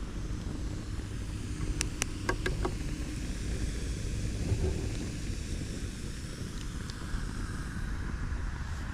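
Wind rumbling on the microphone, with a quick cluster of about five sharp cracks or knocks about two seconds in.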